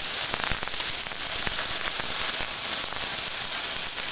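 Chopped shallots sizzling in hot coconut oil in a kadai, a steady hiss broken by scattered sharp pops from mustard seeds crackling in the oil.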